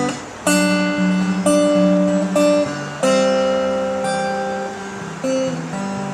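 Acoustic guitar strumming chords without vocals, a chord struck about every second and left to ring out.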